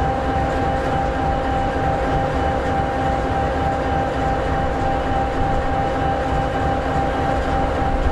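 EMD 16-710G3B turbocharged V16 two-stroke diesel engine of an SD60E locomotive idling steadily: an even low rumble with a steady whine over it.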